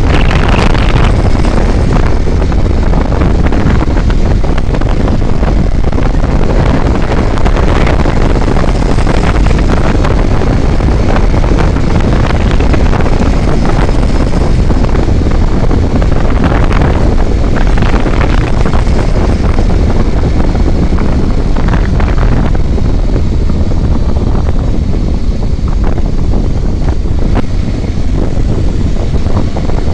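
Loud, steady wind buffeting on the microphone over the noise of a vehicle on the move, its engine and road noise underneath.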